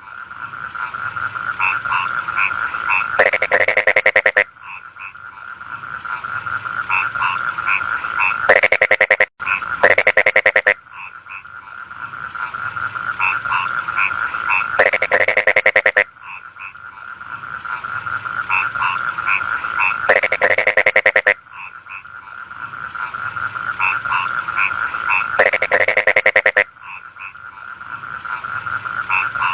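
Rice-field frogs croaking in a dense chorus. About every five to six seconds a loud, rapidly pulsed call swells up and then breaks off.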